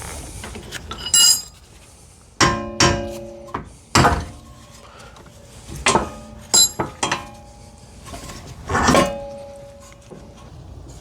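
Hand tools and metal parts clanking together in a series of irregular knocks, several leaving a brief ringing tone.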